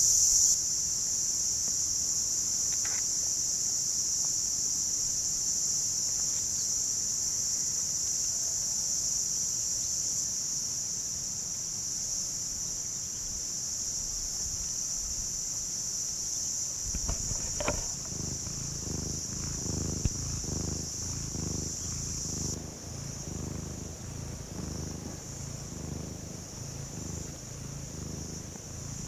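Insects chirring steadily in one high-pitched drone, which grows quieter about two-thirds of the way through. From just past halfway a cat purrs close by, a low, even pulsing under the insect sound.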